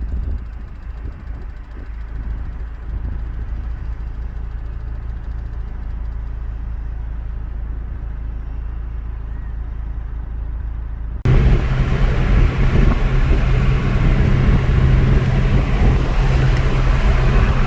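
Car driving, heard from inside the cabin: a steady low road rumble. About eleven seconds in it jumps abruptly to a much louder rushing noise with a steady low hum underneath.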